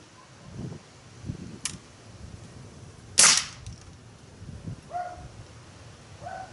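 A single shot from a Crosman Iceman CO2 air pistol, a sharp crack about three seconds in, with a fainter click earlier. Wind rumbles on the microphone throughout.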